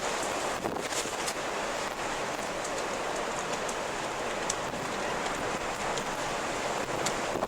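Wind blowing in a steady rush, with a few faint short ticks scattered through it.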